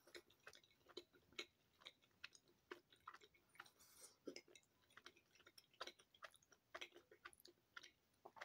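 Faint chewing of a Fruit Gushers gummy fruit snack, heard as soft, irregular mouth clicks.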